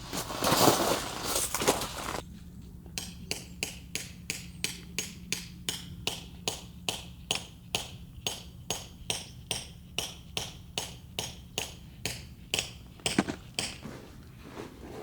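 A couple of seconds of rustling, then a long, even run of sharp taps, about two to three a second.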